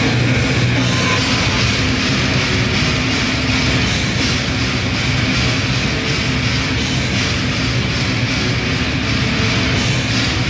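Grindcore band playing live: loud, dense distorted electric guitar and bass over fast drumming, continuous without a break.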